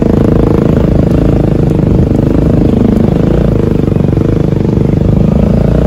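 Motorcycle engine running steadily while riding, loud and close to the microphone.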